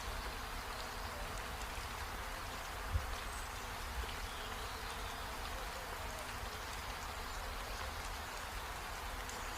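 Steady heavy rain falling, with one brief thump about three seconds in.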